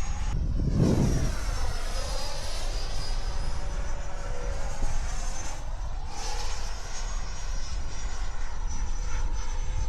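Electric ducted-fan RC model jet flying, its whine sweeping in pitch as it passes, over a steady low rumble of wind on the microphone with a strong gust about a second in.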